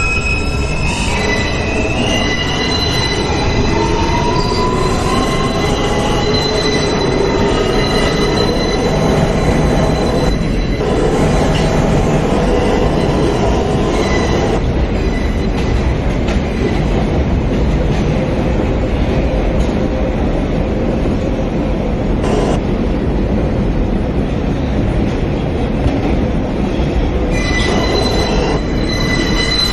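New York City subway J train running, heard from inside the car. A whine rises in pitch over the first several seconds as the train speeds up, over a steady rumble of wheels on the rails. A high-pitched wheel squeal sounds in the first seconds and comes back near the end.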